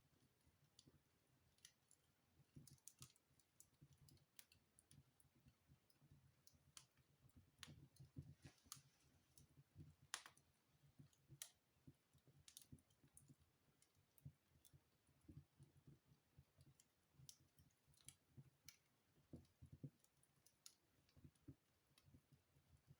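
Wood fire burning in a fireplace, faint and crackling: irregular sharp pops and snaps over a low flutter of flames.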